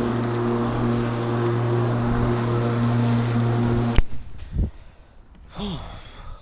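Ozito PXC 36V cordless lawn mower's electric motor and blade running with a steady hum, cutting off suddenly with a click about four seconds in, followed by only faint handling sounds.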